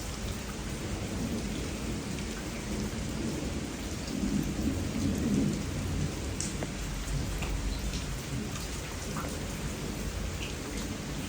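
Steady rain falling during a storm, with a low rumble swelling about four to five seconds in and a few scattered drip-like ticks.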